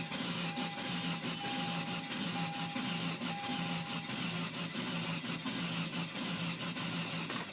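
1998 Ford Contour engine cranking over steadily on the starter without firing, in an even rhythm, and stopping near the end: a crank-but-no-start after overheating. A beeping tone sounds over the first few seconds.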